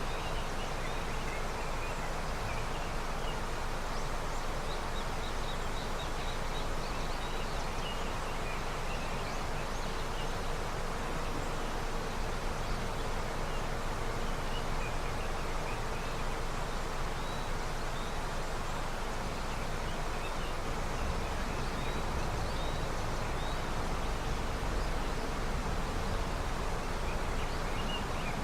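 Steady rushing of a river running with early snowmelt, with faint high chirps scattered over it.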